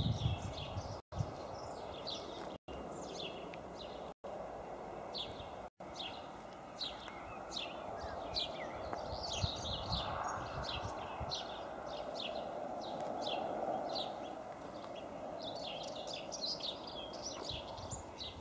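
Small birds chirping: many short, quick falling notes, scattered throughout, over a soft steady background noise. The sound cuts out completely for an instant four times in the first few seconds.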